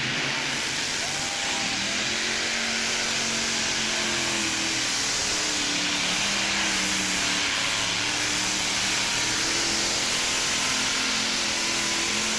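Multi-engine pulling tractor running at full throttle on a pull. It is loud and steady, with a heavy hiss over an engine note that wavers and drifts up and down.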